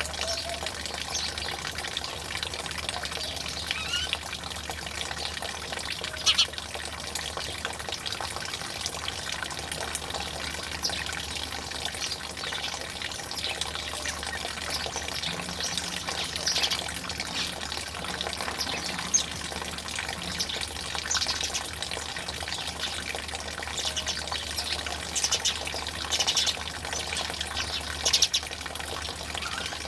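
Water trickling and pouring steadily, with frequent short bird chirps and calls scattered over it.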